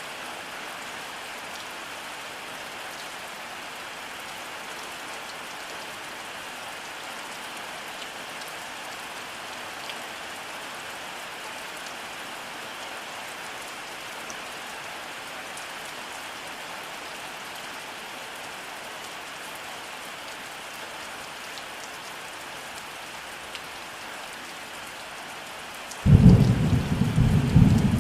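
Steady rainfall, an even hiss of rain, then near the end a sudden loud, low rumble of thunder that becomes the loudest sound.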